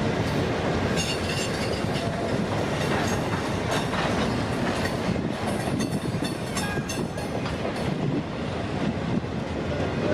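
CPKC freight train rolling past at close range: a steady rumble and clatter of car wheels over the rails, with occasional short high squeaks from the wheels.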